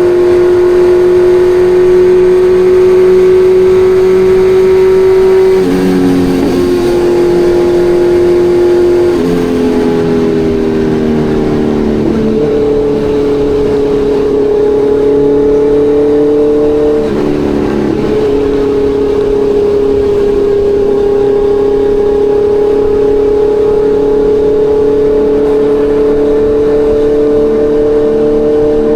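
Kawasaki Ninja 1100SX's inline-four engine running at a steady pace while ridden. Its pitch changes several times: a shift about six seconds in, a slide down from about nine to twelve seconds before it jumps back up, and a brief dip around seventeen seconds.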